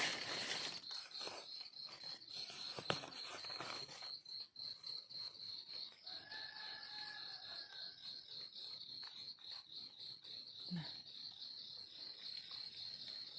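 Insects chirring: a steady, high, rapidly pulsing trill, with a single sharp snap about three seconds in.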